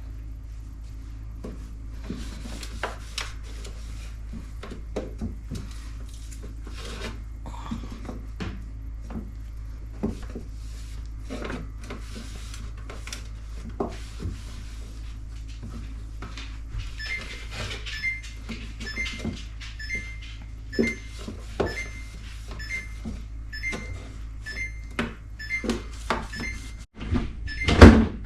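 Bottles, jars and plastic containers clinking and knocking as a refrigerator shelf is emptied and wiped, over a steady low hum. From about halfway through, a regular electronic beep sounds about three times every two seconds. Just before the end comes a loud thump.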